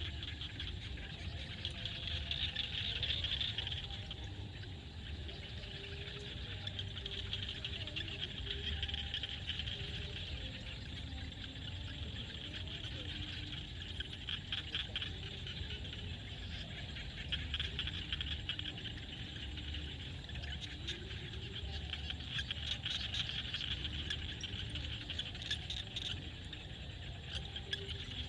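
A dense chorus of frogs calling steadily, with insects trilling among them: a continuous high, rapidly pulsing chorus that swells and eases slightly but never stops.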